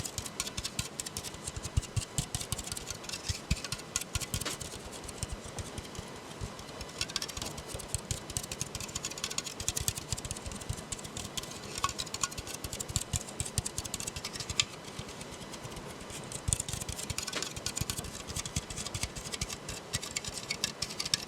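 Fingers tapping rapidly on a soda can: a dense, continuous run of light taps with some duller knocks among them.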